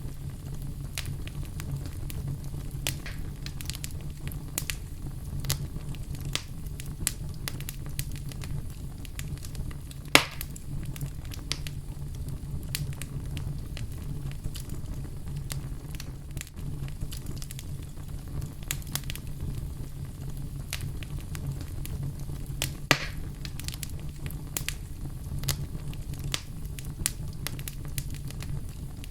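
Wood fire burning in a fireplace, with a steady low rumble and frequent irregular crackles. Two pops stand out, one about a third of the way in and one about three quarters of the way in.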